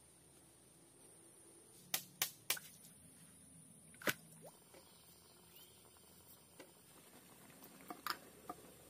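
Scattered sharp taps or knocks: three in quick succession about two seconds in, a single loud one at about four seconds, and a small cluster near the end. Under them is a faint steady high hiss.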